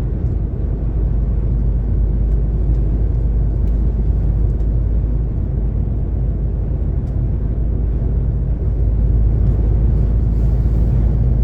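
DAF XF 460 truck driving on the motorway: a steady low drone from the diesel engine and road noise, growing slightly louder about two-thirds of the way through.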